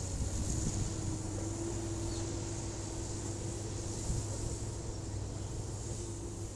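A hydraulic excavator's diesel engine running steadily: a continuous low rumble with a steady hum above it.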